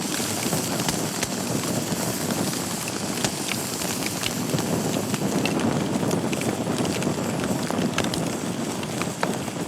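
Wood fire burning in a fireplace: a steady rushing of flames with frequent sharp crackles and pops from the burning logs.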